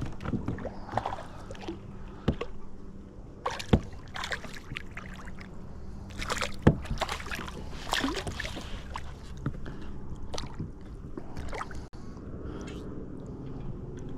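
Scattered knocks and clicks of gear being handled aboard a fishing kayak, two of them sharper than the rest about four and seven seconds in, over a steady low background.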